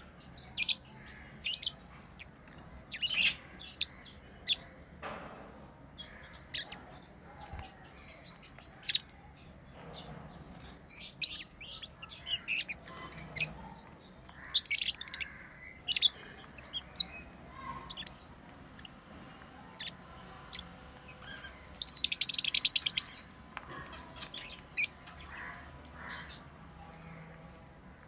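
Pet lovebirds chirping in short, high calls scattered throughout. About three quarters of the way through there is a loud, rapid chattering run lasting about a second.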